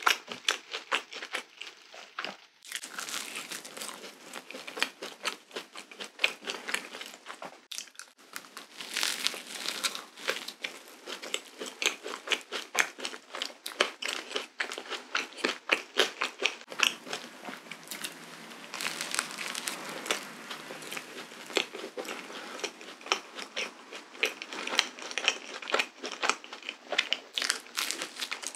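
A person chewing cream-filled waffle close to the microphone, making a dense, continuous run of small clicks and soft crunches. She bites into another piece near the end.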